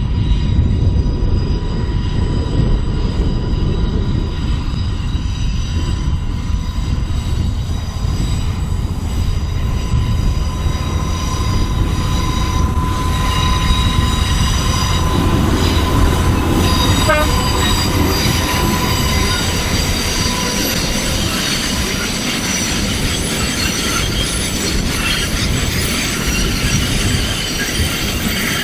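Sugar cane train on 2 ft gauge track rolling by, the wagons giving a steady low rumble. High-pitched wheel squeal builds up over the second half.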